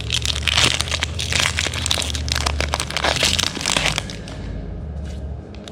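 Foil booster pack wrapper crinkling and crackling as it is handled, dense for about four seconds and then dying down.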